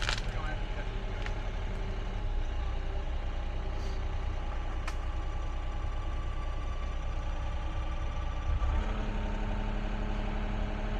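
Excavator's diesel engine running steadily, with a sharp clank at the start and two more about one and five seconds in. About nine seconds in the engine note steps up.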